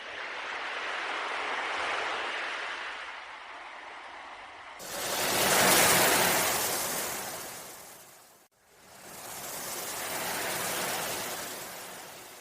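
Ocean waves surging in and washing back, three swells of hiss one after another, the middle one the loudest, about six seconds in.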